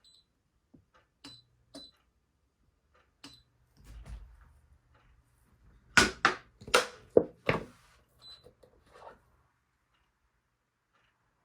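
Scattered light clicks from objects being handled, then about five loud knocks in quick succession a little over halfway through, followed by a few softer taps.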